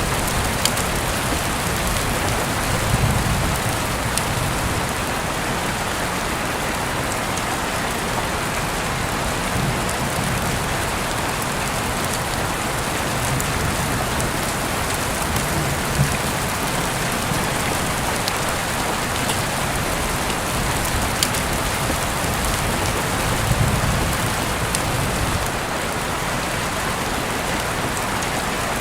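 Heavy rain falling steadily, heard through an open window, with individual drops tapping close by and a few low rumbling swells about three seconds in, about halfway through and near the end.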